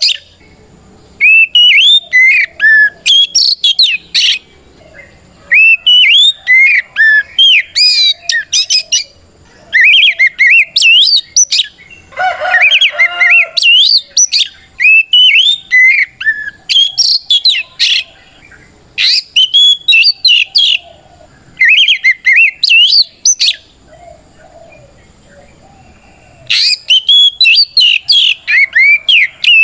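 Oriental magpie-robin (kacer) in full loud song, its challenge song calling out a rival. It sings rapid phrases of varied whistled notes that swoop up and down, in bursts of one to three seconds with short pauses between. About twelve seconds in, it gives a harsher, lower rasping phrase.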